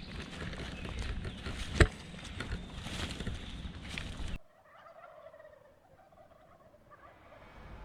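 Loud rustling with scattered thumps, the sharpest a little under two seconds in, cuts off suddenly; then a gobbler (male wild turkey) gobbles faintly, a rapid rattling call that falls in pitch.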